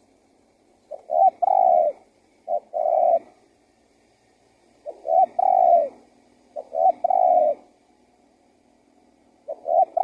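Male spotted dove (tekukur) cooing. It gives its call five times, each a couple of short clipped notes followed by a longer drawn-out coo.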